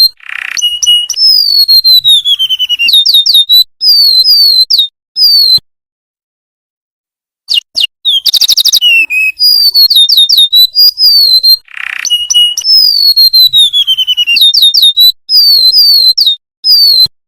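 Golden-bellied gerygone (remetuk laut) singing: phrases of high, thin whistles that slide downward, repeated over and over, with a short buzzy note partway through. A silence of about two seconds falls near the middle.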